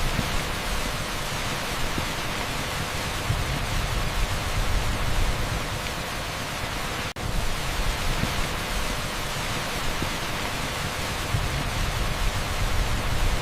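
Torrential rain pouring down on an asphalt street: a dense, steady hiss with a strong low rumble. The sound drops out for an instant about seven seconds in.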